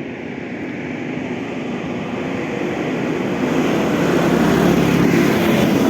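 A motor vehicle's engine approaching and passing close by, its running note and road noise growing steadily louder.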